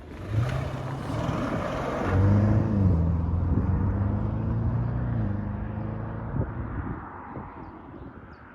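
2015 Audi RS7's 4.0-litre twin-turbo V8 running at low revs, its note rising in level for a couple of seconds and then fading gradually, as from a car moving off or passing by.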